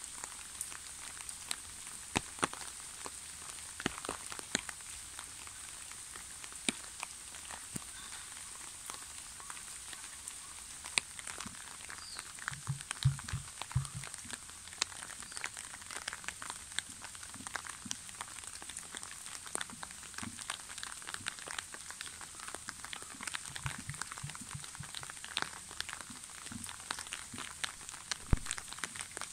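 Steady rain, with many separate drops ticking close by.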